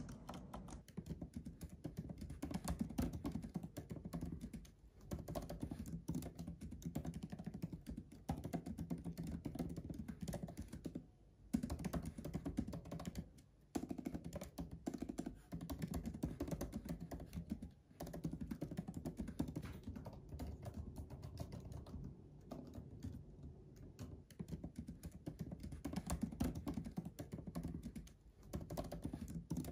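Fast typing on a MacBook laptop keyboard: a dense run of soft key clicks from the rubber-dome keys, with short pauses every few seconds.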